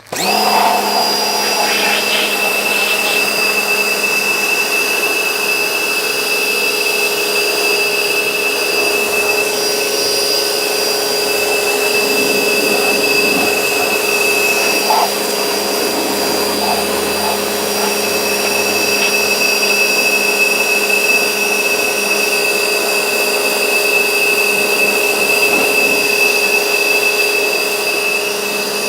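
Vacuum cleaner running steadily, its motor giving an even high whine over a constant rush of air.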